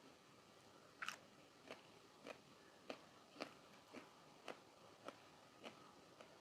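A person biting and chewing crisp food: a sharp crunch of a bite about a second in, then steady crunches of chewing roughly every half second.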